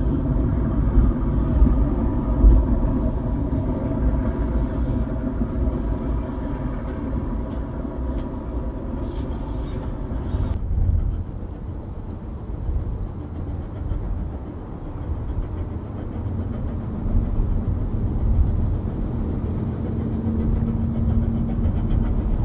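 A goods train of wagons with a brake van at the rear rolling away along the rails, a steady rumble with a mechanical hum in it. About ten seconds in the sound changes abruptly to a quieter, uneven low rumble as a steam locomotive works toward the listener in the distance.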